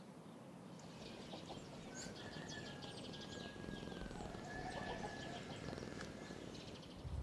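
Birds chirping in quick high bursts. A long thin steady note is held twice, around the middle and toward the end.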